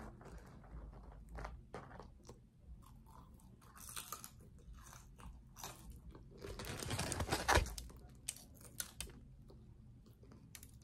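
A person chewing food close to the microphone, with soft wet crunches and crackles. A louder run of crunching comes about seven seconds in.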